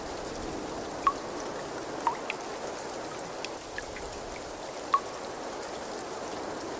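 Steady rush of running water with a scattering of sharp little drip plinks, three of them louder than the rest.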